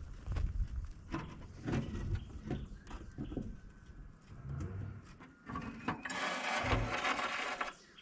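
Hand tools and metal parts knocking and clinking during disassembly of a backhoe dashboard, with a rattling rasp lasting about two seconds near the end.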